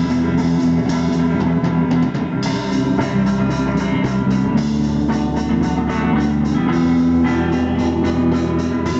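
Rock band playing an instrumental passage: electric guitar and bass over a steady drum-kit beat.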